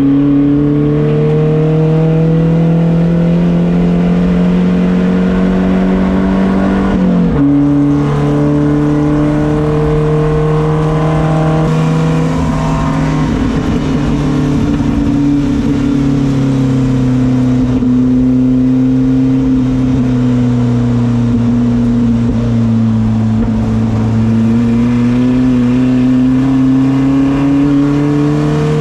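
Race car engine pulling under load, its pitch climbing steadily and then dropping sharply at an upshift about seven seconds in. It holds at a steady pitch, eases off and slowly winds down, then climbs again near the end.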